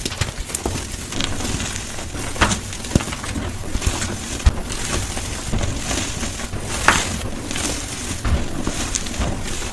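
Gym chalk blocks being crushed, played back at double speed: a dense, irregular crunching and crackling with sharp snaps scattered through it.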